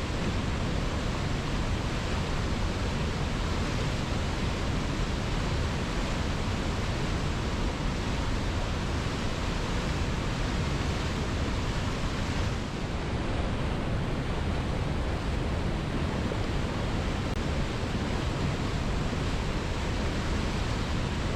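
Waterfall: a steady, unbroken rush of water falling onto rocks, with a brief slight dip in level about halfway through.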